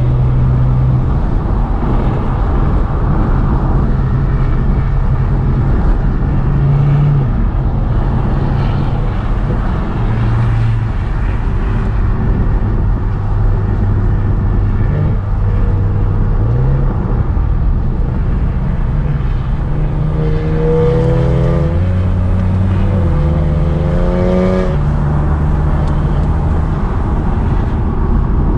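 Car engine running under load while driving, its revs rising and falling several times as the gears change. Between about twenty and twenty-five seconds in, the revs climb twice.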